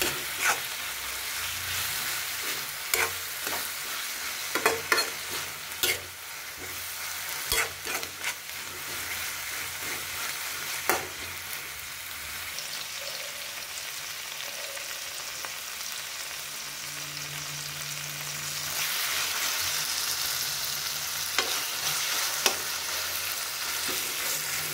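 Green beans, tomatoes and coriander sizzling in a stone-coated frying pan as a steel spatula stirs them, with scattered scrapes and taps of the spatula on the pan in the first half. The sizzle grows a little louder near the end.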